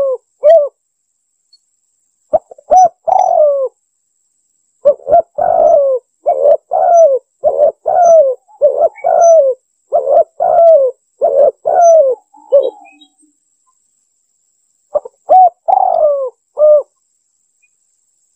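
Spotted dove (tekukur) cooing, a lure call: a short coo phrase, then a long run of about eight repeated coos, then another short phrase near the end.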